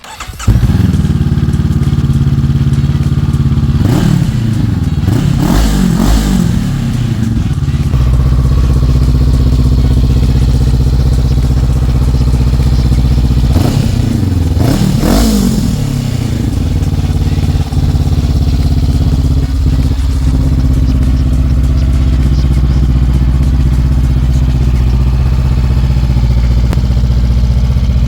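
2022 Honda CB500F's parallel-twin engine, breathing through an aftermarket Delta end can and link pipe, starting up about half a second in and idling, blipped twice into a rising and falling rev about four seconds in and again about thirteen seconds in.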